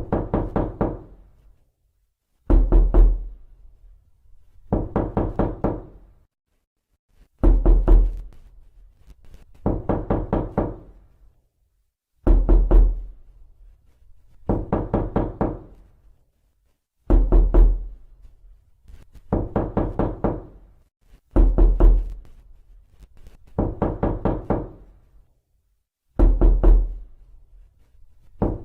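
Someone knocking on a door, repeated over and over in short sets of rapid knocks, a new set about every two seconds. Heavier, deeper sets of knocks alternate with lighter, quicker ones.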